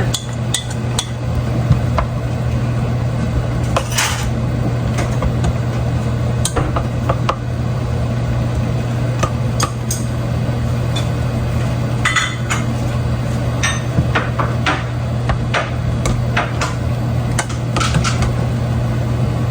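A utensil knocking and clinking against a pan at irregular intervals as the sauce is stirred, over a steady low hum.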